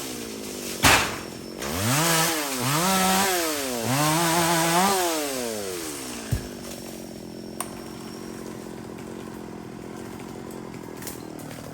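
Chainsaw revved up and let fall back three times, then left idling steadily. A loud sharp knock comes about a second in.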